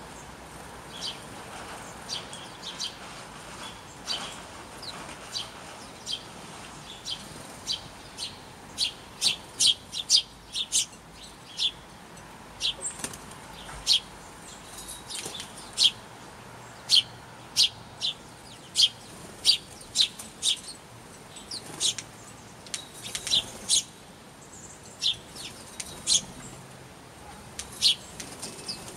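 Small birds squabbling over food, giving many short, sharp, high chirps, irregular and at times several a second.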